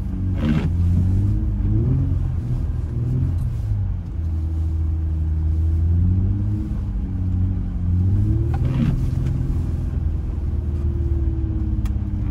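Infiniti G35 coupe's 3.5-litre V6 heard from inside the cabin, running at low revs through a slow drift on snow. Its note rises and falls several times as the throttle is worked.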